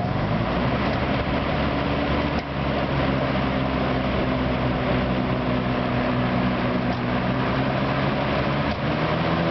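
Galaxy Super box fan (model 3713) motor and blades coming up to speed and then running steadily: a hum with a rush of air. There is a single click about two and a half seconds in, and the hum steps up a little in pitch near the end.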